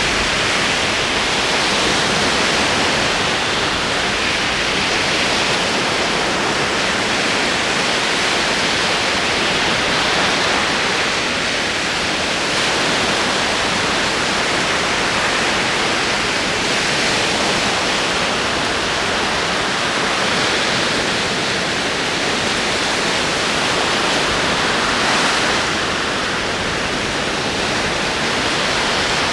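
Ocean waves rolling in: a steady wash of surf that rises and falls only slightly in loudness.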